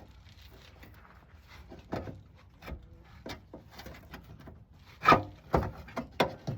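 Irregular light clicks and knocks of hands working tools and parts at the engine, with a louder cluster of knocks about five seconds in.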